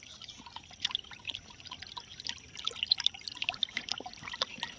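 Water splashing and trickling in many small, irregular splashes, as water is stirred while fish are caught.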